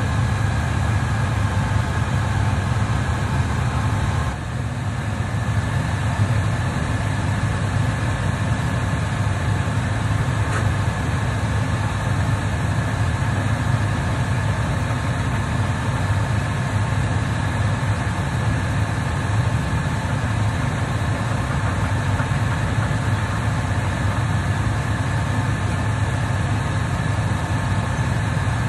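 An engine running steadily, a constant low hum with a thin steady whine above it.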